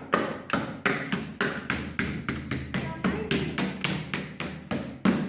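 Hand hammer striking over and over in a quick, even rhythm, about four light blows a second.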